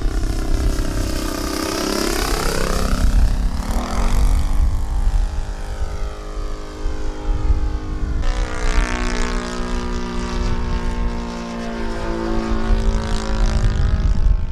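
Saito FG-50 four-stroke gasoline engine of a radio-control Extra 300 aerobatic plane in flight, its propeller note dipping and then climbing again a few seconds in, then holding steadier. Wind rumbles on the microphone.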